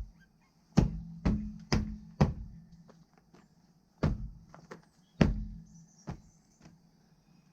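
A series of sharp knocks, each with a short low ring, coming in bunches of three or four about half a second apart with short pauses between.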